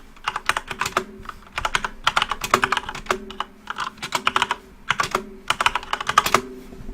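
Typing on a computer keyboard: quick runs of key clicks in bursts separated by short pauses, stopping about six and a half seconds in.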